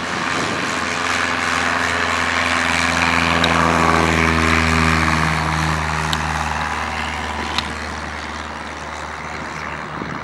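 Propeller airplane passing close by, its engine and propeller drone swelling to loudest about four seconds in, then fading as the pitch drops.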